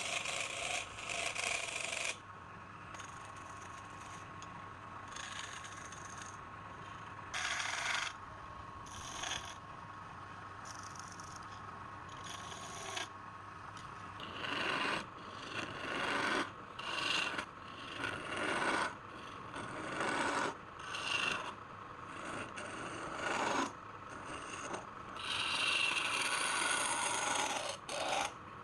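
Wood being worked by hand with an abrasive or rasping tool, in repeated strokes that come about once a second in the second half, with a longer continuous stretch near the end.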